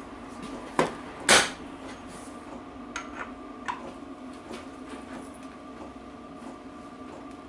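Metal hand tools working on a gearbox nut with a socket wrench: two sharp metallic knocks about a second in, the second louder, then a few lighter clicks, over a steady hum.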